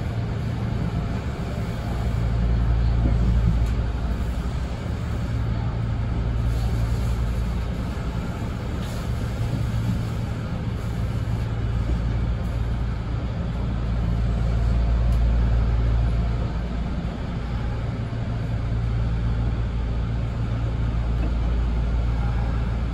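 Kintetsu express train running along the line, heard from inside the car: a steady low rumble of motors and wheels on rail with a lighter hiss over it, swelling and easing slowly as it goes.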